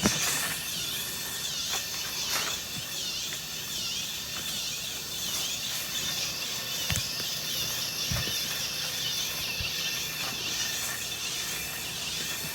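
Restored 2007 Spirit Halloween animated flying bat prop running, with a high-pitched chirp that dips and rises in pitch about twice a second.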